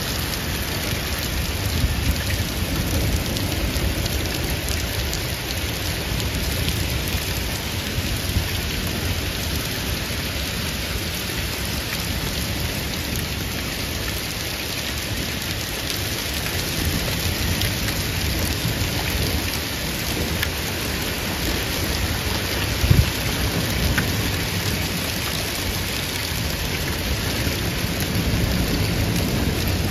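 Heavy rain pouring in a thunderstorm, with thunder rumbling low underneath. A single sharp knock stands out about three-quarters of the way through.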